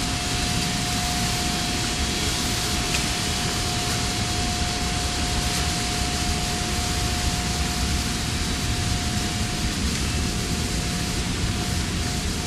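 Steady industrial plant noise: a continuous rushing roar with a whine held on one steady pitch.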